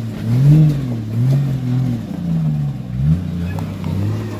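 Off-road four-wheel drive's engine revving in short throttle blips, its pitch rising and falling about four times, as the driver bumps a back wheel up over a rock.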